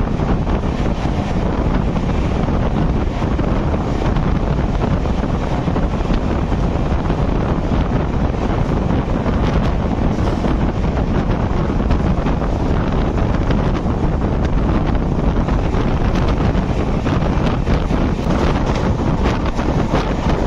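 Express train running at speed, with the microphone held out beside the coach: steady wind noise on the microphone over the running rumble of the train on the track.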